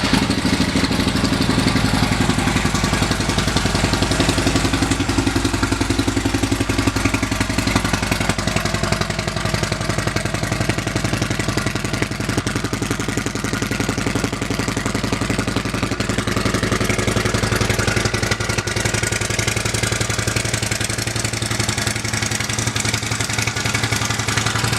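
Harley-Davidson CVO Limited's 110 cubic inch V-twin idling steadily through an aftermarket Rinehart exhaust, just after start-up.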